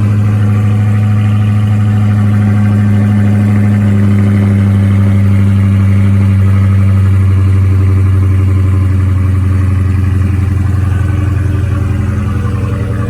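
2020 Dodge Charger Hellcat Widebody's supercharged 6.2-litre Hemi V8 idling steadily after a cold start, with a deep, even rumble. Near the end the idle drops a little in pitch and gets quieter.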